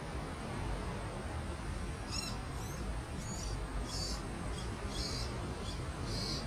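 Short, high bird chirps repeating about twice a second, starting about two seconds in, over a steady low rumble of background noise.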